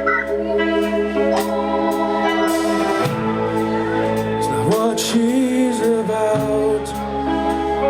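Live rock band playing an instrumental passage: sustained, organ-like chords over regular drum hits, with a wavering melodic line about five seconds in.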